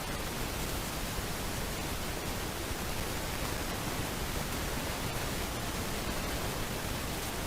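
Steady, even hiss with no bird calls or other distinct sounds.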